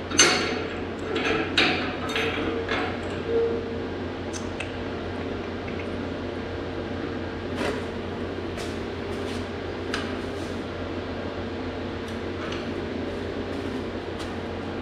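Metal parts knocking and clinking as they are handled and fitted. A loud knock opens the cluster, then a few more follow quickly before thinning to occasional single clicks, over a steady electrical hum.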